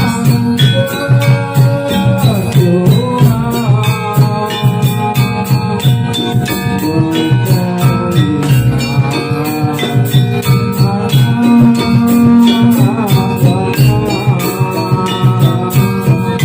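Javanese jathilan music: gamelan percussion and drums in a fast, steady beat with jingling bells, under a melody line that slides up and down in pitch.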